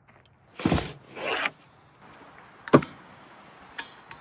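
Handling noise: two short rustling scrapes in quick succession, then a single sharp click, with a few faint clicks after it.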